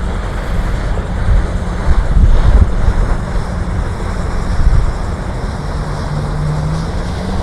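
Loud wind buffeting the microphone in gusts, over a steady rush of waves and a low steady hum that rises slightly about six seconds in.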